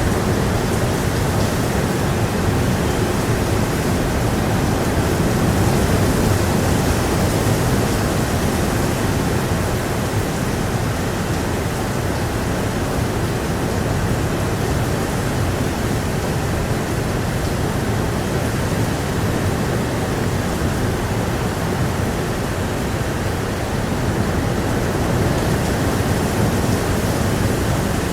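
Heavy rain falling steadily, with blustery wind gusting and rumbling underneath.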